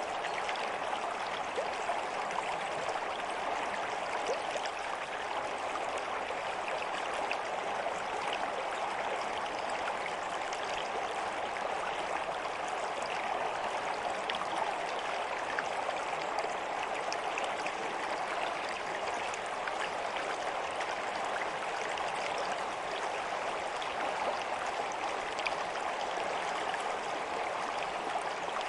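Stream water flowing steadily, an even rushing babble flecked with many small splashes.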